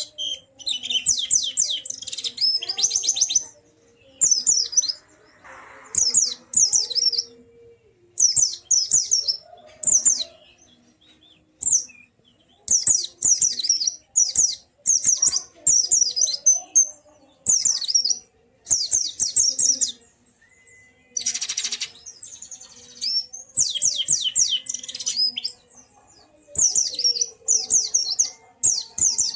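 White-eye (pleci) singing: bursts of quick, high-pitched twittering notes, each phrase a second or two long, repeated with short pauses between. A brief rustle cuts in about two-thirds of the way through.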